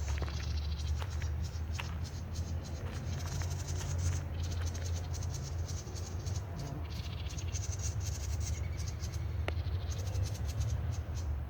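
Birds giving rapid, high-pitched chattering calls in repeated bursts, over a steady low rumble.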